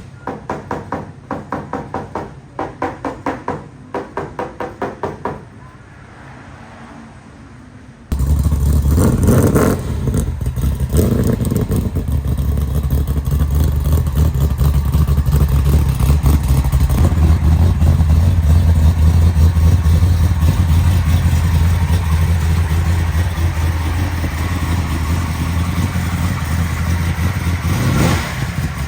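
Quick runs of light taps, about three or four a second, typical of knocking down a panel during dent repair. After a sudden cut about eight seconds in, a car engine runs loudly and steadily with a deep rumble.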